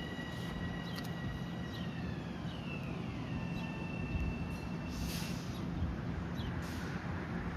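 Long Island Rail Road train running with a high electric whine that slides down in pitch a few seconds in as the train slows, over a steady low rumble. Short hisses sound about five and nearly seven seconds in.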